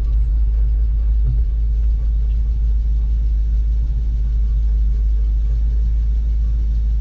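1974 Ford F-250's 360 FE V8 running steadily as the truck drives along, a loud even low rumble with road noise.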